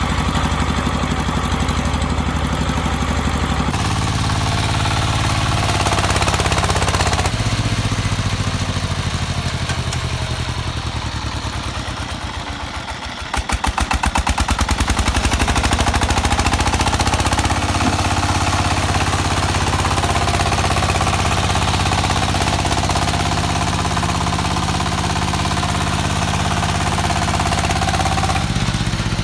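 Diesel engines of walking tractors (power tillers) running. The sound changes abruptly several times. Around the middle it becomes an even chugging of separate firing beats.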